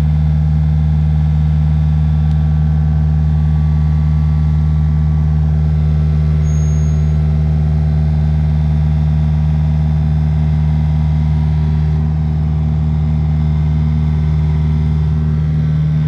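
Kubota U55-4 mini excavator's diesel engine running steadily at working throttle while the machine handles a heavy 36-inch concrete pipe section.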